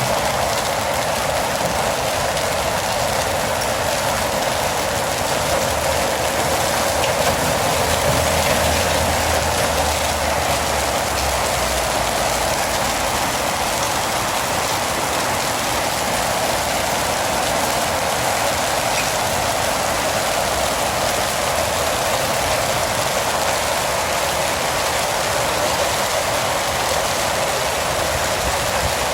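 Heavy rain mixed with hail pouring down in a dense, steady hiss. A faint low rumble swells briefly about six seconds in.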